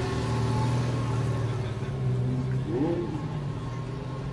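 Bugatti Veyron Grand Sport's W16 engine running at a fairly steady pitch, with a short rising-and-falling sound about three seconds in.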